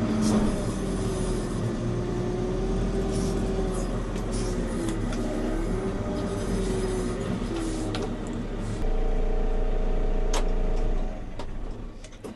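JCB 3CX Pro backhoe loader's diesel engine running, heard from inside the cab, its pitch wandering as the machine is driven and manoeuvred. It runs louder and steadier for about two seconds, then dies away in the last second or so.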